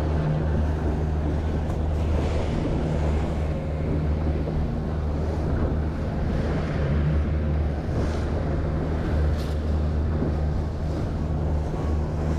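Boat engine running steadily with a low hum, under wind on the microphone and the rush of water.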